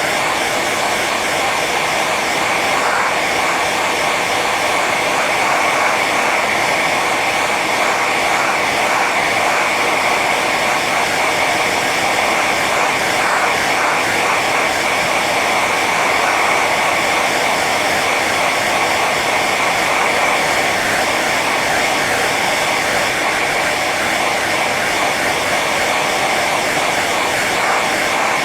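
Hair dryer running steadily on its high setting: a constant blowing rush with a steady whine from the fan motor.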